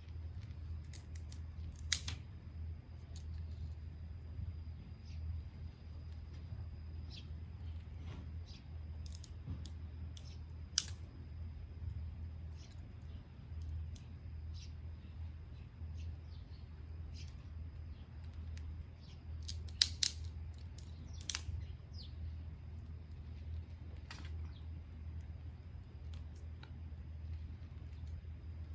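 Small wood fire crackling, with scattered sharp pops, over a steady low hum and a faint, steady high tone.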